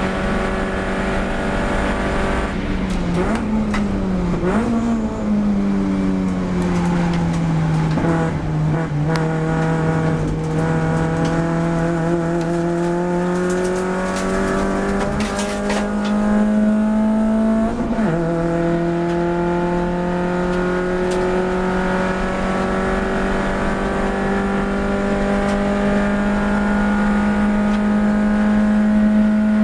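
Car engine under load on track, its pitch climbing slowly through long pulls, with gear changes breaking the note about 3 to 5 seconds in and again sharply about 18 seconds in.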